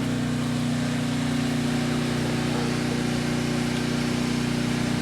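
A steady, unchanging low engine drone, like a motor idling.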